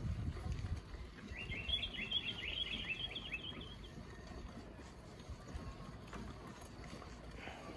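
A bird calling in a quick run of short chirps, about six a second, lasting about two seconds and starting about a second in, over a steady low rumble.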